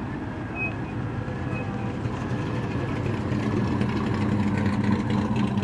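A vehicle engine running steadily nearby, a low even hum that grows a little louder in the second half.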